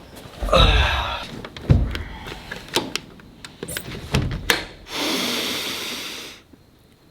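A series of knocks and thumps, then about a second and a half of rushing noise that cuts off suddenly.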